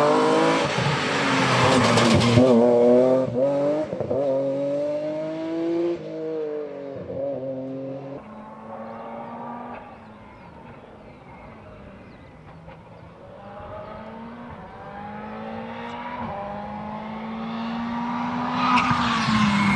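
Rally car engine at full throttle close by, climbing in pitch and dropping back at each upshift through several gears, then fading into the distance. Near the end an engine comes close and loud again, its pitch falling as it slows.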